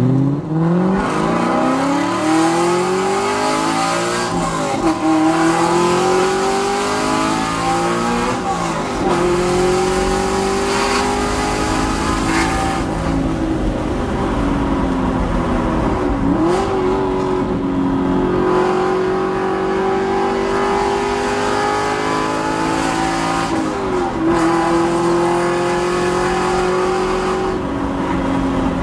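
Aston Martin V8 Vantage's V8 through a Kreissieg valvetronic aftermarket exhaust, pulling through the gears on the street. The engine note climbs steadily and falls sharply at each of four upshifts.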